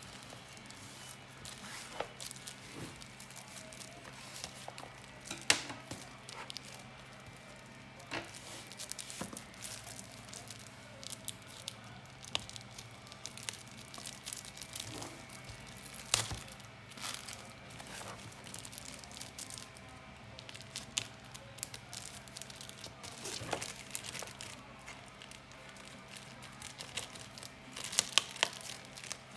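Packaging being handled and opened: wrapping crinkling and tearing, with scattered sharp clicks and taps, over a steady faint hum.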